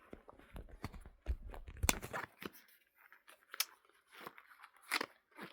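Quiet handling noises of small items being moved in and out of a bag: scattered rustling and light clicks, with a cluster of low bumps and a sharp click about two seconds in, and single clicks later on.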